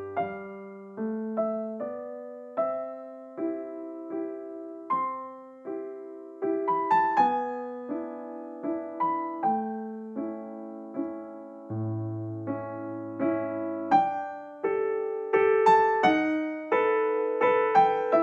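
Soft background piano music: a slow, gentle melody of single struck notes with sustained low bass notes beneath.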